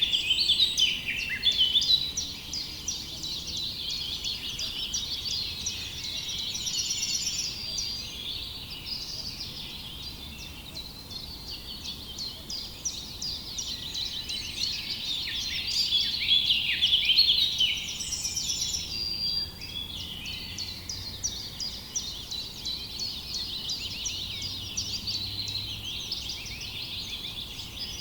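Many small birds chirping and singing at once in a dense, continuous chorus of short chirps and trills, swelling near the start and again about sixteen seconds in.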